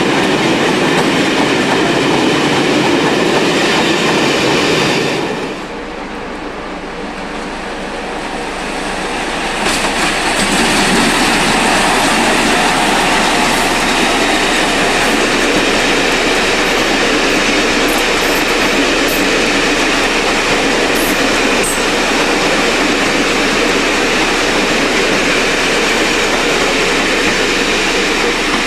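Train running past on the rails: a loud, steady rumble and clatter of wheels. It falls away abruptly about five seconds in, then builds back up a few seconds later and holds steady.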